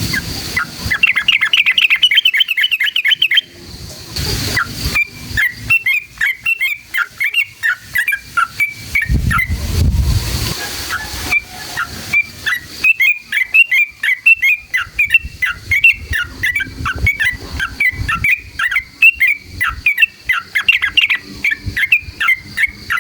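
Yellow-vented bulbul (trucukan) singing long, fast rolling runs of bubbly chirps, several runs in a row with short breaks between them.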